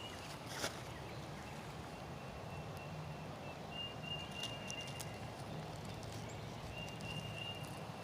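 Footsteps on a trail, with a few scattered crunches over a steady outdoor background. A thin, high steady note sounds twice, about a second each time, around the middle and near the end.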